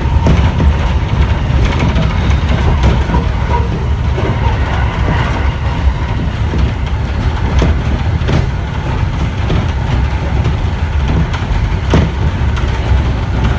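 Cabin noise of an E231 series 1000 commuter train running between stations: a steady low rumble with a faint steady tone and occasional sharp clicks from the wheels on the rails.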